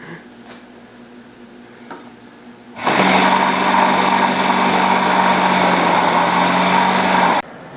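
Model aircraft engine running at a steady high pitch, loud. It starts abruptly about three seconds in and cuts off suddenly after about four and a half seconds.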